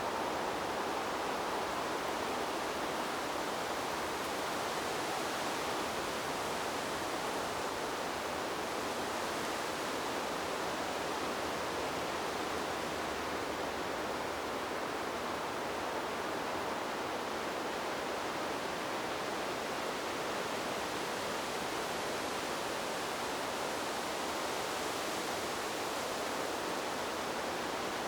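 Wind blowing through trees: a steady, even rushing hiss with no gusts or lulls.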